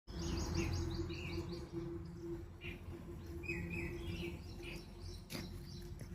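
Birds chirping, starting with a quick run of short repeated notes and then scattered chirps, over a steady low hum and rumble.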